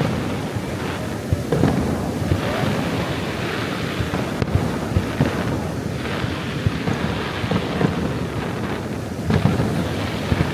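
Fireworks display: aerial shells bursting in quick succession, a constant rumble of overlapping bangs and crackle. There is a cluster of louder bangs near the end.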